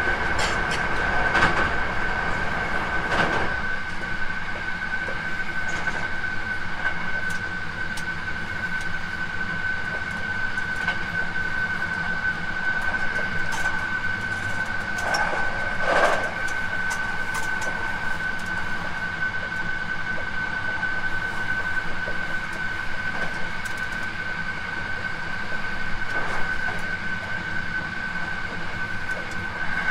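A Hankyu 9300 series electric train running, heard on board: a steady rumble with a constant high-pitched whine. A few louder knocks come from the wheels, about two and three seconds in, near the middle and near the end.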